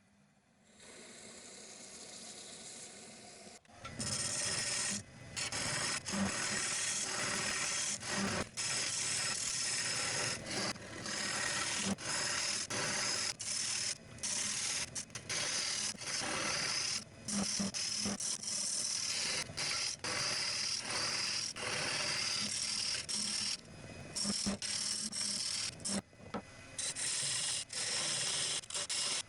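Abrasive sanding paste being rubbed onto a small turned wood piece spinning on the lathe: a steady, loud rubbing hiss, broken again and again by short pauses. It starts about four seconds in, after a quieter stretch of hiss.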